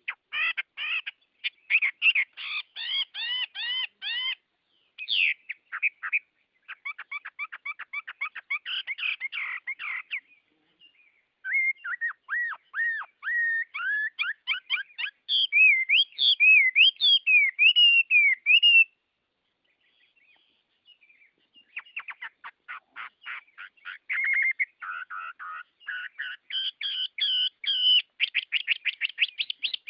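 Birdsong: phrases of fast, rapidly repeated chirping trills and a stretch of gliding, whistled warbling notes, broken by brief silent pauses between phrases.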